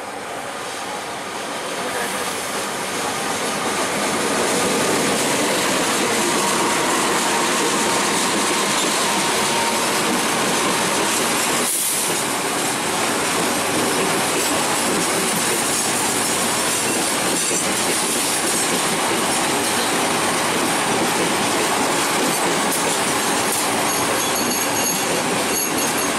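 KAI passenger train passing close by at speed, its wheels running over the rails with a clickety-clack. It grows louder over the first few seconds as it arrives, and thin high wheel squeals come in near the end.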